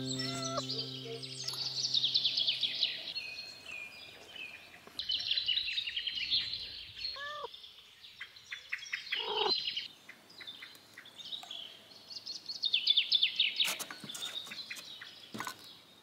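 Small songbirds singing in repeated runs of fast, high, falling trills, with two short lower calls around the middle.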